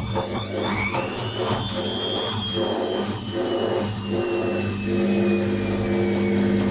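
Atlant 50U101 washing machine's motor and drum whining as the drum speeds up. The whine rises for about a second and a half, then slowly sinks, over a steady hum and rumble.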